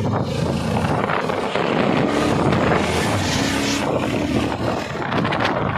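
Yezdi Adventure motorcycle's single-cylinder engine running while riding, with wind rushing over the microphone.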